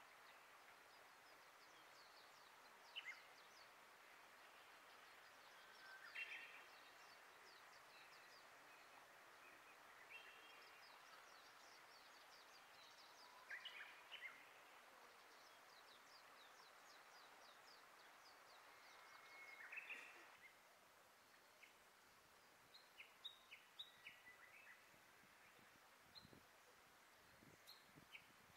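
Faint outdoor ambience of wild birds singing and calling, with many short chirps and quick trills scattered through, over a soft steady hiss that gets quieter about two-thirds of the way through.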